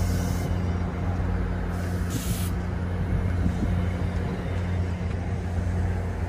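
NJ Transit commuter train cars rolling past at low speed with a steady low rumble and drone, and two short hisses of air, one at the start and one about two seconds in.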